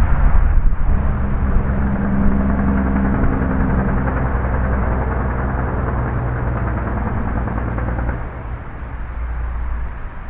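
Rolling thunder: a long low rumble that dies down about eight seconds in, over a steady hiss of rain and wind.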